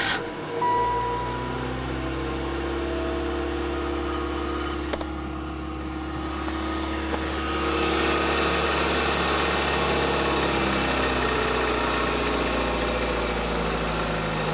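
1991 Chevrolet Beretta engine catching on a cold start about half a second in, then running at a steady cold idle. A steady hiss rises over the idle about eight seconds in.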